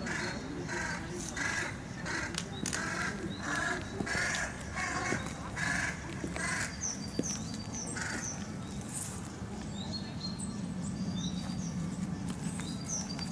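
Birds calling: a run of short harsh calls, about two a second, for the first half, then high short chirps from a small bird, over a steady low hum.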